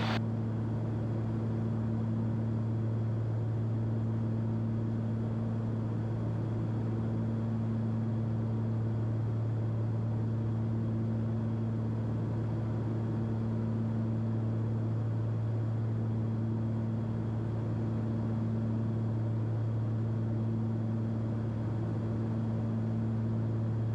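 Cessna 340's twin piston engines and propellers droning steadily in cruise at about 2,300 RPM, a low even hum with no change in pitch.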